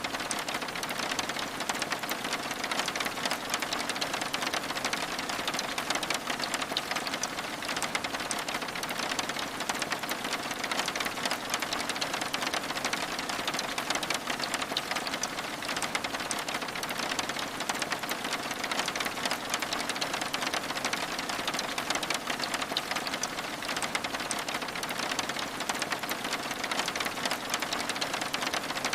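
Steady rain, a dense patter of raindrops tapping on window glass without pause.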